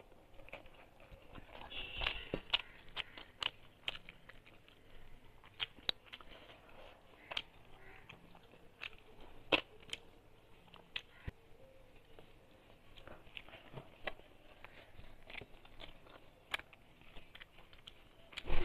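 A person eating rice by hand: close-up chewing mouth sounds with many short, irregular clicks.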